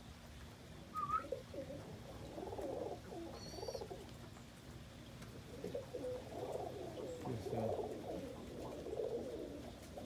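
Homing pigeons cooing inside their loft: low, wavering coos in two bouts, one in the first half and a longer one in the second half, with a brief higher chirp about a second in.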